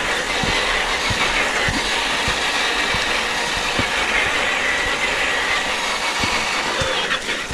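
Traxxas TRX-4 RC crawler driving over rock, its electric motor and geared drivetrain whining steadily, with scattered light knocks.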